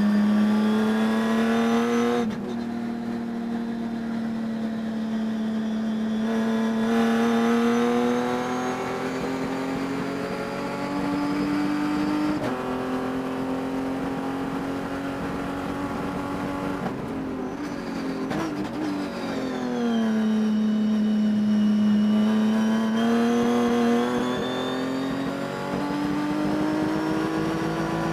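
Race car engine running hard under acceleration, its pitch climbing and dropping back at each upshift, easing off in the middle for a corner, then pulling up through the gears again. The engine had a high-RPM miss throughout the race.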